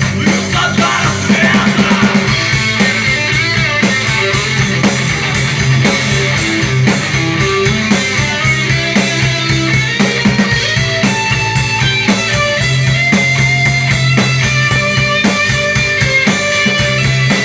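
Rock song played with a drum kit keeping a steady beat and guitar, in an instrumental stretch without clear singing.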